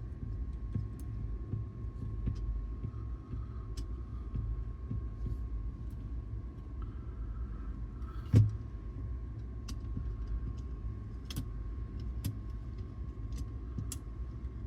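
Small clicks and taps of parts being handled on a cassette deck's tape transport, with one sharper knock just past the middle, over a steady low hum and a faint high steady tone.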